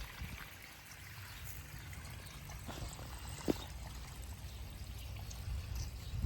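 River water flowing and trickling, over a low rumble, with one sharp click about three and a half seconds in.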